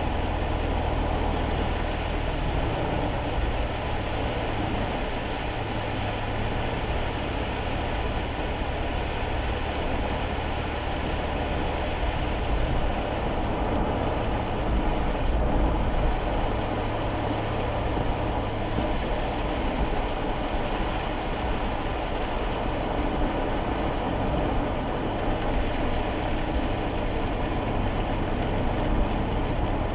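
Steady road noise heard inside a small kei car driving on wet roads in the rain: tyre hiss over a low engine drone.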